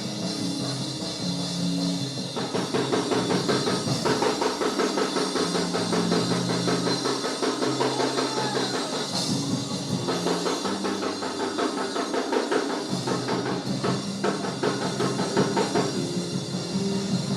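Church band playing fast praise music led by a drum kit, with held low notes underneath; the drumming comes in thick and fast about two seconds in.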